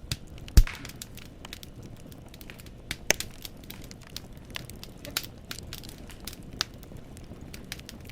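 Wood fire crackling in a fireplace: scattered sharp pops and snaps of burning firewood over a low steady hiss, with one loud, deep pop about half a second in.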